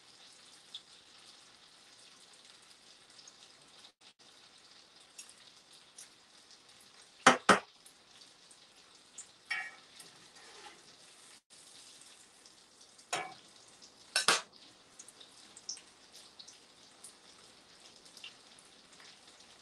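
Breaded pork cutlets frying in oil in a skillet, a faint steady sizzle. A few sharp kitchen clacks come through it, a loud pair about a third of the way in and another about two-thirds in.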